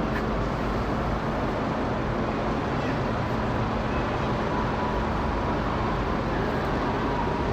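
Airbus A380 airliner's four jet engines passing overhead: a steady, even rush of engine noise, with a faint high whine coming in near the end.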